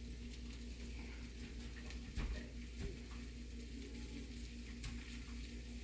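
Quiet kitchen background: a low steady hum and a faint hiss, with a few light clicks and knocks.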